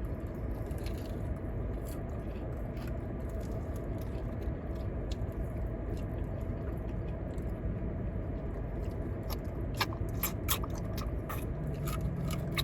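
A person chewing and biting into food, with a run of sharp clicks or crunches about ten seconds in, over a steady low rumble.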